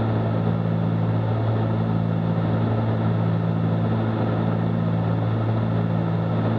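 Cessna 310Q's twin piston engines and propellers droning steadily at cruise-descent power, heard inside the cabin, with an even low hum that does not change.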